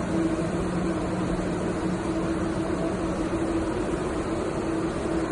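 Steady background hum and even noise, with no distinct events: the constant ambience of a large indoor hall.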